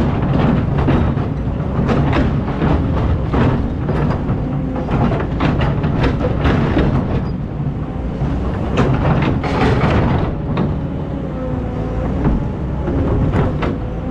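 Excavator's diesel engine running steadily, with frequent clanks and clatters of metal and stone throughout.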